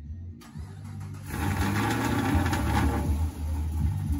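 Car engine running under bass-heavy music, with a rushing noise that starts about half a second in and grows louder a second later.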